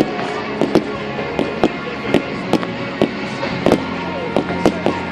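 Fireworks display: a run of sharp bangs, roughly two a second and unevenly spaced, with music playing underneath.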